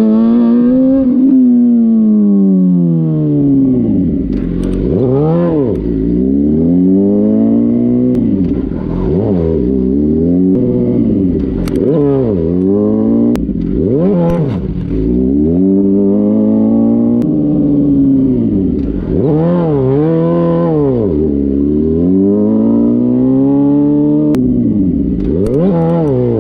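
Motorcycle engine revving up and falling back over and over, about every three to five seconds, as the bike is ridden hard in first gear through slides and turnarounds.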